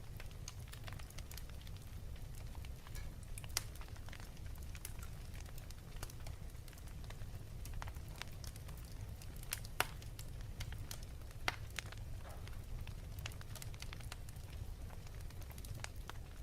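Wood fire crackling in a fireplace: irregular sharp pops and snaps over a steady low rumble, with one louder pop about ten seconds in.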